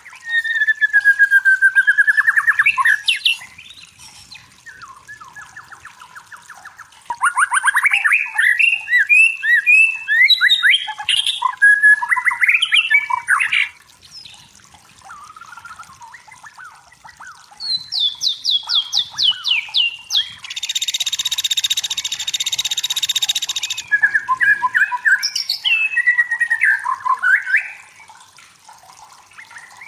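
Songbird singing loud, varied phrases of whistles and rapid trills in bouts separated by short pauses, with a harsh buzzy call lasting a couple of seconds about two-thirds through.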